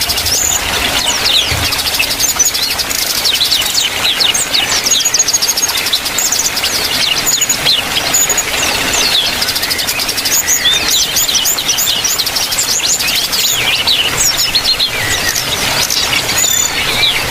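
Several small aviary birds chirping and twittering at once, rapid short high calls overlapping without a break.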